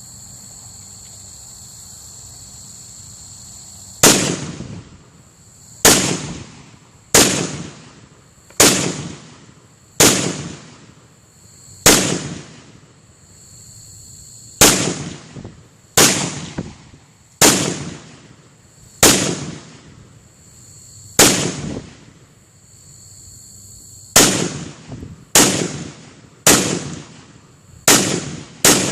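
Zastava PAP M92 AK pistol in 7.62x39 firing single shots, starting about four seconds in and then a shot every second or so, about eighteen in all, each blast echoing briefly. Crickets chirr steadily underneath between shots.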